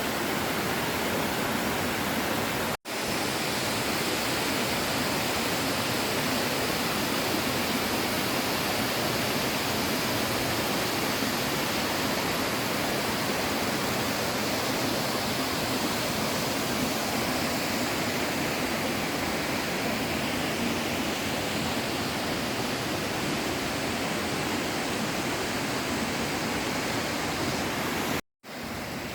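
Waterfall rushing with a steady roar of falling water. The sound cuts out for a split second about three seconds in and again near the end.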